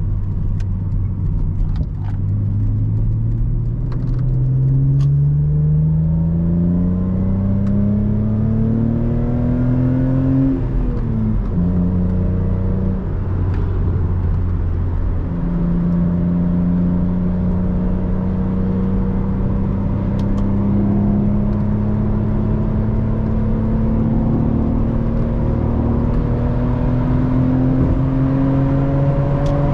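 Lexus IS300's 2JZ inline-six, with an HKS Carbon Ti exhaust and no resonator, pulling hard through the gears of its 5-speed manual, heard from inside the cabin. The engine note climbs steadily for about ten seconds, drops sharply on an upshift about eleven seconds in, then climbs again more slowly in the higher gear.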